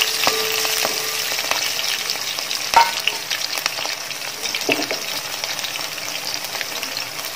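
Garlic, ginger and green chillies sizzling steadily in hot gingelly (sesame) oil with popped mustard seeds in an aluminium uruli. A wooden spatula stirs and scrapes the pan, with small clicks throughout and one sharp knock about three seconds in.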